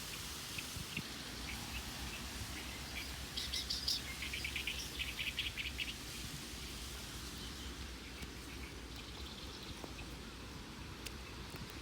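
A bird calling: a short burst of high notes about three and a half seconds in, then a quick series of repeated chirps lasting about two seconds, over steady outdoor background noise.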